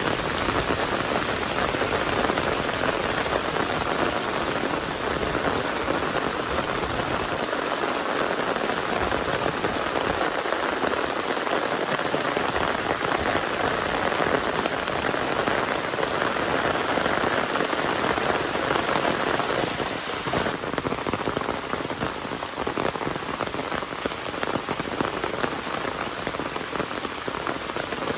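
Steady rain falling, a dense even patter of drops on surfaces. About two-thirds of the way through, the rain turns slightly softer and duller.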